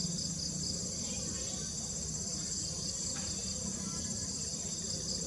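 Steady, high-pitched chorus of insects such as crickets or cicadas, trilling without a break, over a low background hum.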